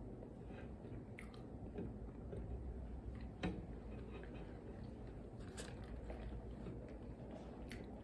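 A person chewing food close to the microphone, with short wet mouth clicks scattered through it.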